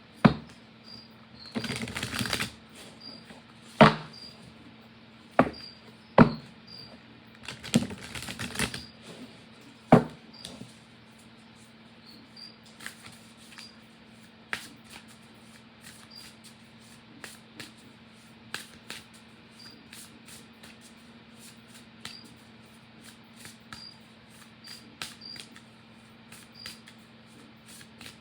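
A deck of oracle cards being shuffled and handled. Two brief bursts of shuffling and several sharp taps come in the first ten seconds, then only faint scattered clicks.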